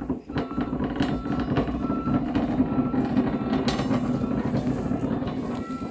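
Alstom electric metro train rolling slowly on track, with a steady low running rumble from its wheels and running gear. A short high beep repeats a little under twice a second over it, and a brief hiss comes a little past the middle.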